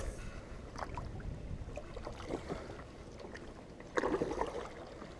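Kayak paddle strokes with water splashing and dripping around the hull, over a steady low wind rumble on the microphone; a louder splash about four seconds in.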